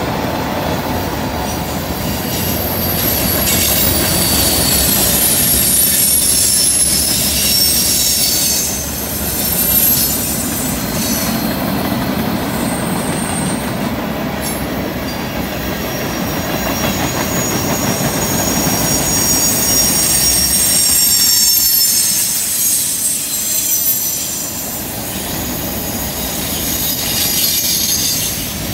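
Freight cars rolling past on a curve, a steady rumble and clatter of steel wheels on rail, with high thin wheel squeal coming and going as the wheel flanges grind against the curved rail.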